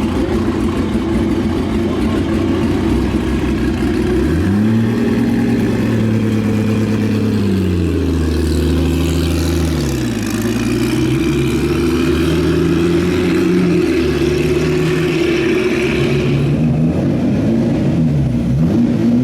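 Racing car engine at a track day: a steady engine note, then revs climbing about four seconds in, held, dropping, and rising and falling several more times in quick succession.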